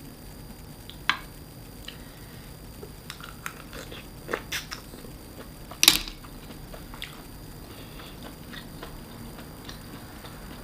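Close-up eating sounds of a person chewing and biting seafood, with a few short sharp clicks, the loudest about six seconds in.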